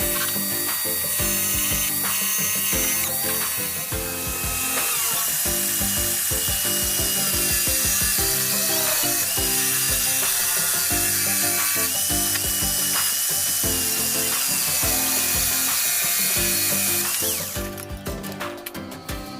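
A power tool runs with a high whine over background music, then stops near the end.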